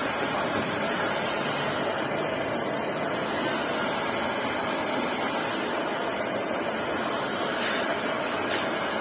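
LG washing machine running with a steady rushing noise, like water filling, with two brief high hisses near the end.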